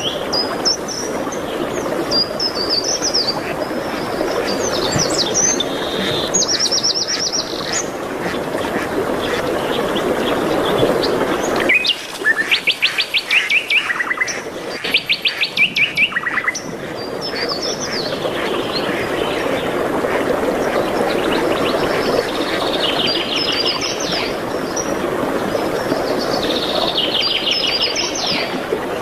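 Songbirds singing: quick repeated trills and chirps, the loudest run of trills from about twelve to sixteen seconds in. Under them a steady rushing noise, which drops out during those loudest trills.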